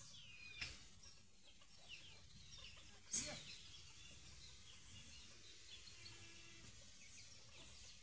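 Quiet outdoor ambience with faint, scattered bird calls in the distance. One brief louder sound comes about three seconds in.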